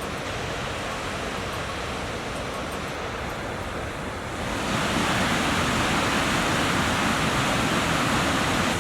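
Steady rushing noise of flowing water, growing louder and brighter about four and a half seconds in.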